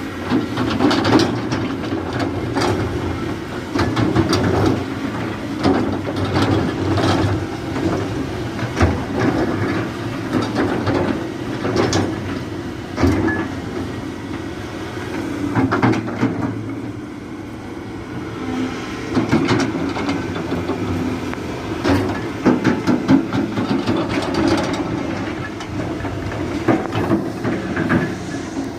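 Volvo EC480 crawler excavator's diesel engine working under load, with hydraulics straining and frequent irregular metallic clanks and scrapes from the bucket and undercarriage as it digs and moves soil. The working sound eases for a moment a little past the middle, then picks up again.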